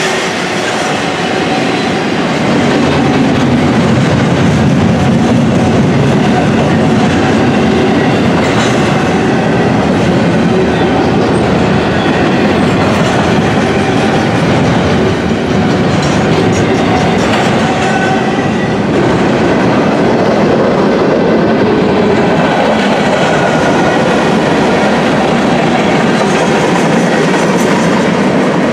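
Intermodal container freight cars rolling past, a loud steady rumble with wheels clacking over the rail and faint thin squeals now and then.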